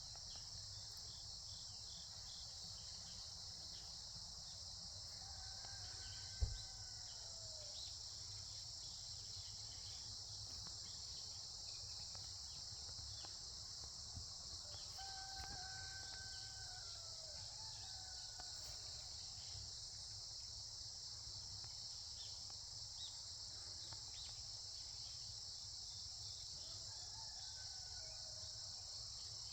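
A steady chorus of autumn insects such as crickets, with a rooster crowing faintly three times, about 5, 15 and 27 seconds in. A single sharp knock sounds about six seconds in.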